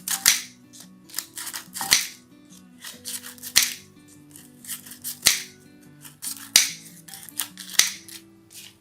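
Scissors cutting through dry, brittle rice paper sheets: a series of sharp, crisp snips, about one a second, over background music.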